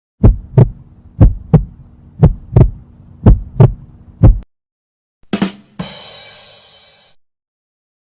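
Heartbeat sound effect: low lub-dub thumps in pairs about once a second, over a faint steady hum. Then a 'ba dum tss' rimshot: two quick drum hits and a cymbal crash that rings out and fades.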